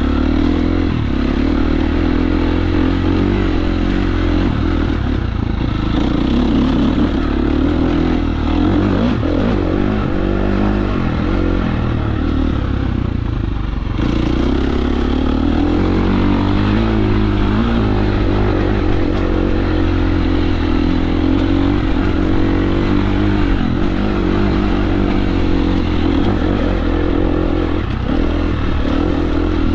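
KTM 350 SX-F four-stroke single-cylinder dirt bike engine running under constantly changing throttle on a trail ride, its pitch rising and falling, with a brief dip about 14 seconds in.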